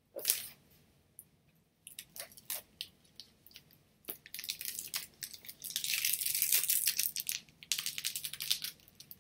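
Crinkling and rustling of something being handled, like plastic or paper, with a sharp click about a quarter second in; the crackle starts sparse, then turns dense and steady from about four and a half seconds to near the end.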